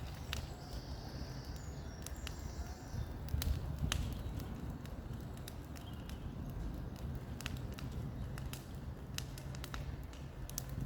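Irregular sharp cracks and snaps, scattered through the whole stretch, over a steady low rumble.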